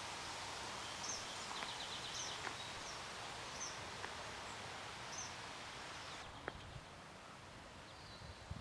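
Small birds giving short, high chirps, with a brief rapid trill about two seconds in, over a steady outdoor hiss.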